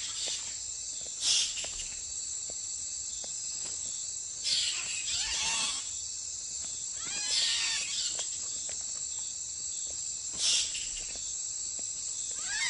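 Bats squeaking and chittering in a squabble in four short high-pitched bursts, some sliding down in pitch, over a steady chorus of night insects.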